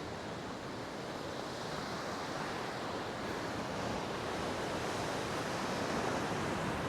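Surf on a rough sea, a steady wash of waves that slowly grows louder.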